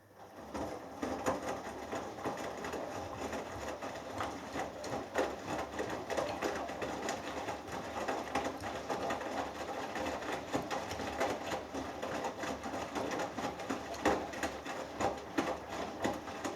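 Hoover Dynamic Next front-loading washing machine in its last rinse: the drum turns and tumbles the wet laundry, with water sloshing and clothes flopping in irregular knocks. The tumble starts abruptly and stops after about sixteen seconds.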